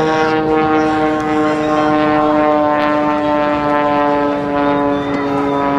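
Propeller airplane droning overhead: one steady pitched tone with many overtones, slowly dropping in pitch as it passes.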